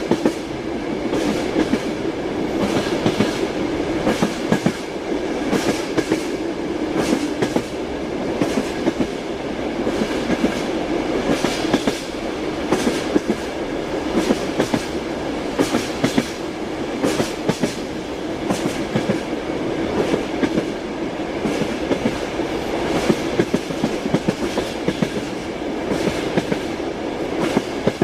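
Passenger train running, heard from inside a compartment: a steady rolling rumble with the clatter of wheels knocking over rail joints.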